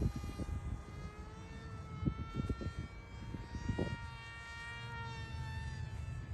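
Electric motor and propeller of a small RC airplane in flight, a steady whine whose pitch drifts gently up and down with throttle and distance. Wind buffets the microphone underneath.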